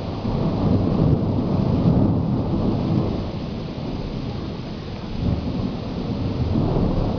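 Thunder rumbling in two long swells, the first about half a second in and the second near the end, over the steady hiss of heavy rain.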